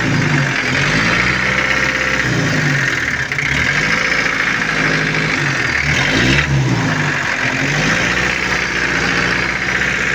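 Isuzu 4BA1 four-cylinder diesel engine running, its speed rising and falling again and again, about four or five times, with a short sharp click about six seconds in.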